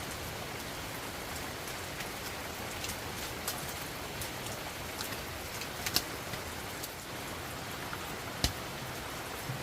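Heavy rain falling steadily, with a few sharp taps of drops or knocks scattered through it; the loudest are about six and eight and a half seconds in.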